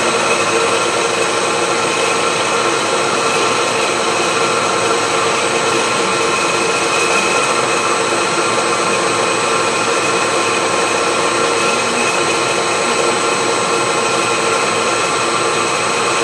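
Milling machine running steadily, its cutter machining a steel wood-chipper blade, with a constant motor and spindle whine over a noisy hiss of cutting.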